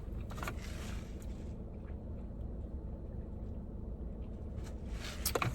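Steady low hum inside a parked car, with a few faint clicks and a brief burst of louder clicks and rustling near the end.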